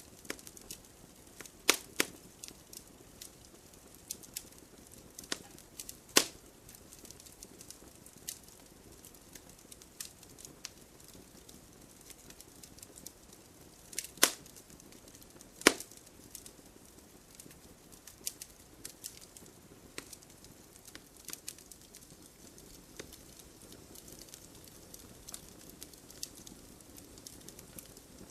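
Campfire crackling, with irregular sharp pops over a soft steady hiss; a few louder pops stand out about 2, 6, 14 and 16 seconds in.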